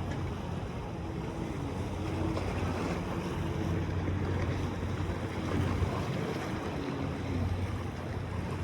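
A boat's motor drones steadily under a wash of water and wind noise.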